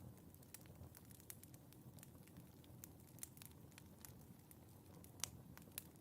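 Wood fire burning quietly in a fireplace, with a low rumble and frequent irregular small crackles and pops, the loudest pop a little over five seconds in.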